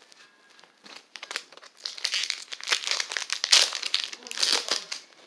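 Foil Pokémon booster pack wrapper crinkling as it is handled, in irregular bursts of crackles starting about a second in.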